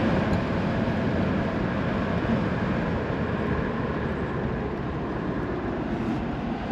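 1970 Ford Mustang convertible under way with the top down: a steady engine drone mixed with road and wind noise in the open cabin.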